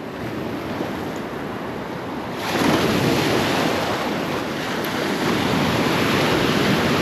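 Gulf surf washing and breaking around a wader, a steady rushing hiss that swells louder about two and a half seconds in.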